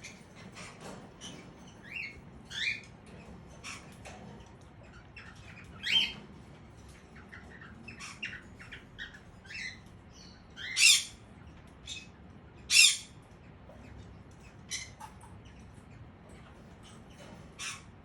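Small caged parrots chirping and squawking in a run of many short calls, some rising in pitch. Two loud, harsh squawks stand out past the middle.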